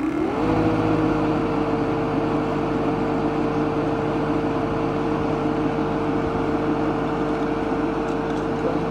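Refrigerant recovery machine running in purge mode: its motor and compressor spin up to a steady pitched hum in the first half second, run evenly, and shut off at the very end.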